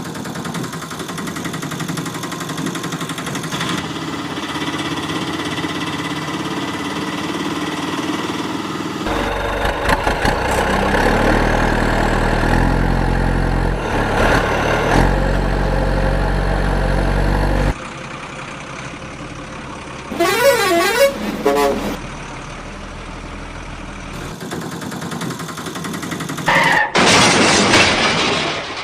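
A run of heavy vehicle sounds: truck engines running and horns sounding, including a warbling up-and-down tone about twenty seconds in and a loud blast near the end.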